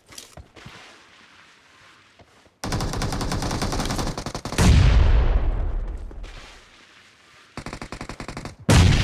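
Video game automatic gunfire. There are a few faint clicks at first, then a two-second burst of rapid fire about three seconds in, a louder, heavier shot with a long fading tail, and another rapid burst near the end.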